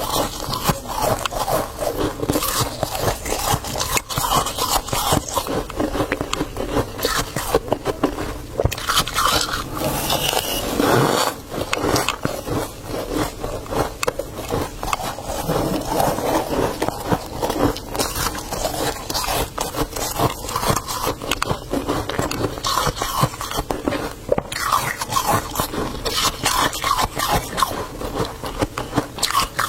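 Freezer frost being scraped and crunched: a dense, continuous crackly crunching of ice flakes.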